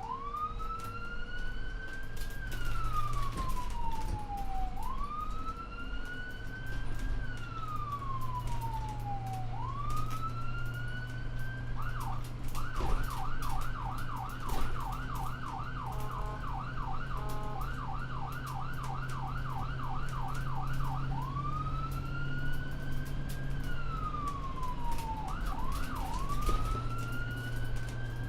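Emergency vehicle siren in wail mode, its pitch sweeping slowly up and down about every five seconds. Part way through it switches to a fast yelp for roughly nine seconds, then goes back to the wail. A steady low engine hum runs underneath.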